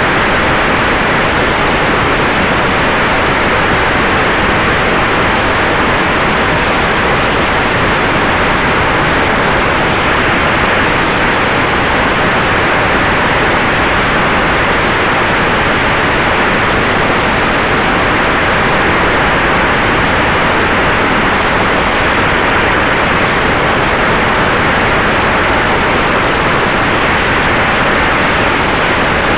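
Steady rush of wind and airframe noise in flight aboard an electric Sonex Xenos aircraft, even and unbroken, with a faint steady tone held at one pitch underneath.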